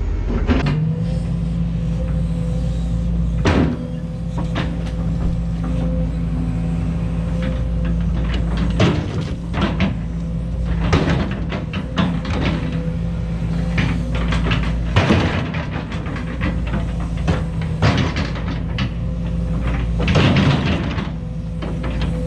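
Case 210 excavator's diesel engine running steadily under load, with irregular clanks and knocks of rock and concrete being struck and shifted, over background music.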